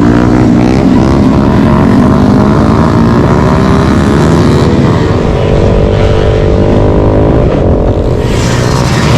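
Motorcycle engines running loud, their pitch rising and falling as they rev.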